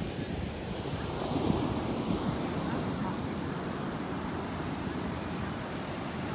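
Sea surf washing onto a beach, with wind rumbling on the microphone; the waves swell a little louder about a second and a half in.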